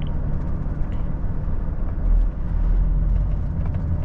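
Semi-truck engine and road noise heard inside the cab while driving, a steady low rumble.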